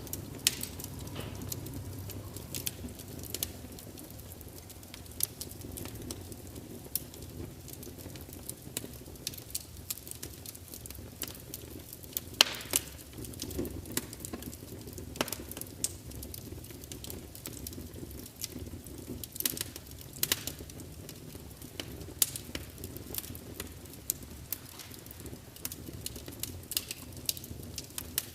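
Log fire burning in a large open fireplace: a steady low rumble of flames with irregular crackles and sharp pops of spitting wood, one louder pop about halfway through.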